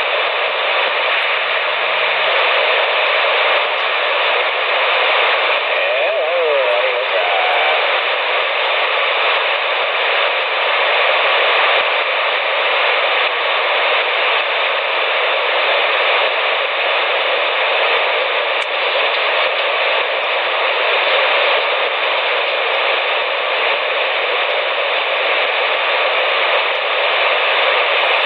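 CB radio receiver hissing steady static through its speaker, with a brief warbling tone about six seconds in.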